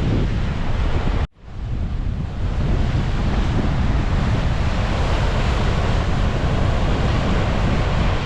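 Strong wind buffeting the microphone over ocean surf, a dense low rumble. About a second in the sound cuts out abruptly and fades back up over the next second.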